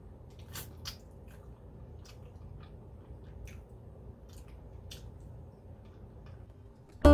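Close mouth sounds of someone eating rotisserie chicken with her fingers: scattered soft chewing, lip smacks and small wet clicks over a faint room hum. Guitar music starts suddenly right at the end.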